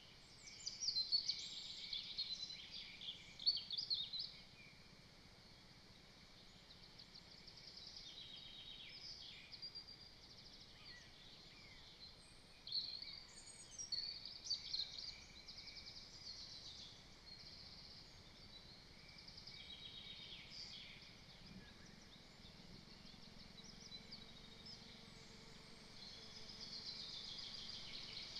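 Small birds singing and chirping: many quick high calls and trills overlap, loudest in short flurries near the start and again about halfway through, over a faint steady outdoor hiss.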